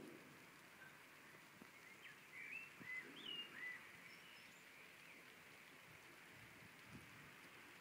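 Faint outdoor background with a bird giving a quick series of short chirps, each rising or falling, about two to four seconds in.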